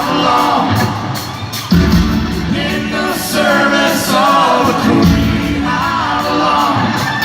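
Rock band playing live with a male lead singer.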